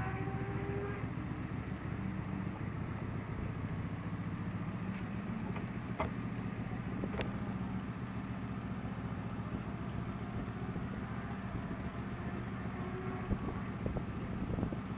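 Yamaha R1's inline-four engine idling steadily, with two sharp clicks about six and seven seconds in.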